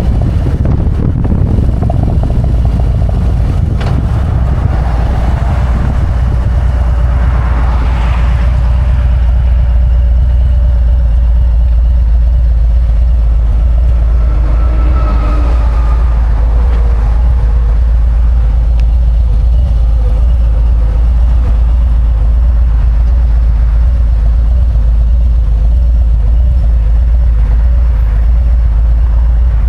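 Harley-Davidson Road Glide's V-twin engine running steadily on the ride, a loud, even low drone.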